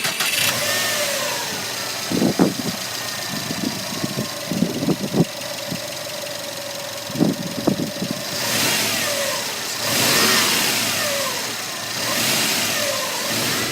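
2018 Subaru WRX STI's 2.5-litre turbocharged flat-four running at idle with a few short low thumps, then revved three times, the pitch rising and falling with each rev.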